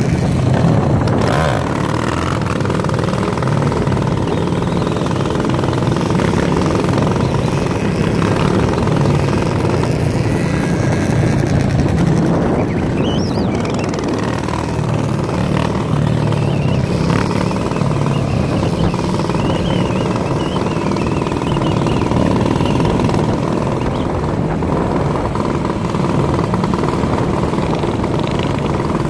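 Minibike's small engine running steadily, with no big changes in speed.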